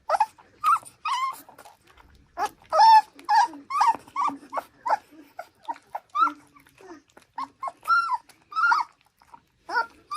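A dog vocalizing in a rapid run of short, pitched whines and yelps, several a second, each call bending in pitch.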